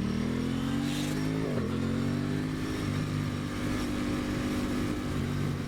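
2023 Aprilia Tuono 660's parallel-twin engine pulling under acceleration, its note rising in pitch, with a brief break about a second and a half in before it pulls on more steadily. Wind rushes over the helmet microphone throughout.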